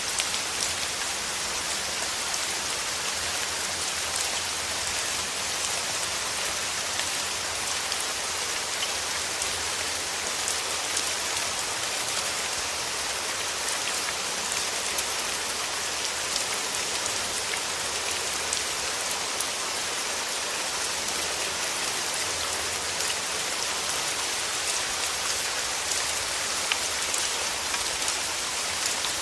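Steady rain falling, an even hiss with many small individual drop ticks scattered through it.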